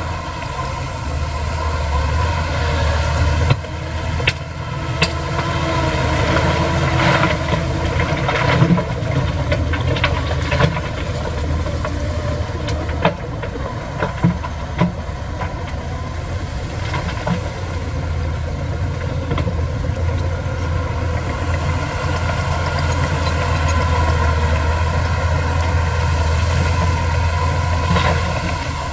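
Heavy earthmoving machinery's diesel engine running steadily, with a scattering of sharp clanks and knocks through the first half.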